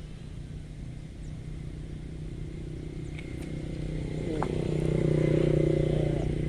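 A motor vehicle engine passing close by, growing louder to a peak about five seconds in, then easing off.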